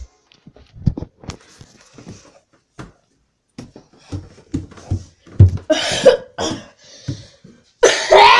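A person coughing repeatedly in a small room, a series of short coughs with pauses between them, the hardest ones near the end.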